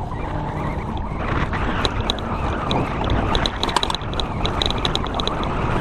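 Riding noise from a road bicycle under way: wind on the microphone and the rumble of tyres on the road. A quick, light ticking comes in runs from about two seconds in.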